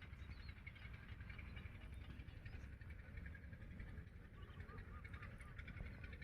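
Faint outdoor ambience with distant birds calling in short, repeated chirps over a low rumble.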